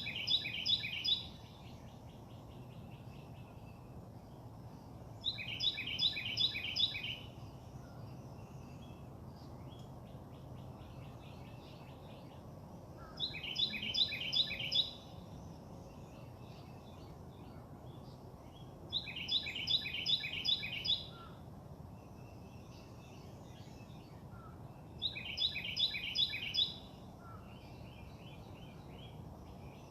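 A songbird sings the same short phrase over and over: each is a quick run of about five repeated bright notes, coming five times about six seconds apart. Beneath the song there is a steady low background hum.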